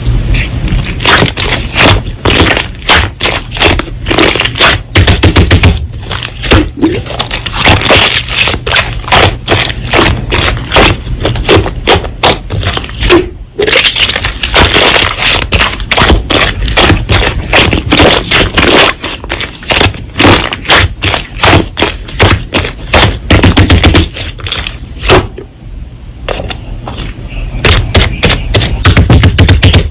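Slime being squeezed and kneaded by hand, making dense runs of crisp popping and crackling clicks, with a short lull near the end.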